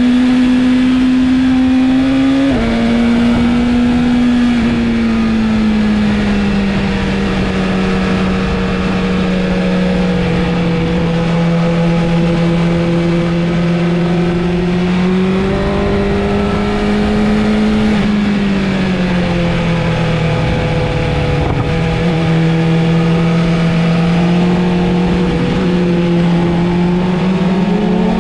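Inline-four sport motorcycle engine running at fairly steady revs. Its pitch drops abruptly about two and a half seconds in and again near five seconds, climbs slowly for a few seconds in the middle, then falls back and holds steady.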